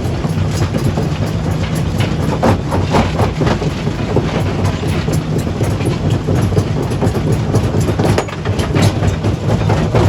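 Stone crusher running under load: a steady low machine hum with frequent, irregular knocks and clatter of rock being broken.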